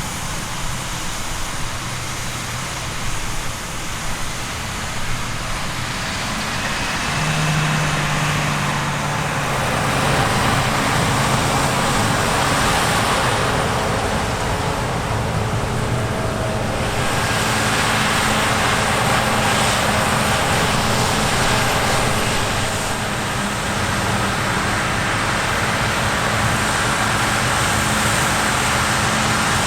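Heavy diesel harvest machinery running steadily, growing louder between about eight and ten seconds in and then holding.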